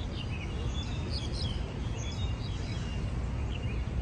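Small birds chirping, a quick run of short chirps over the first two seconds or so and one more near the end, over a steady low outdoor rumble.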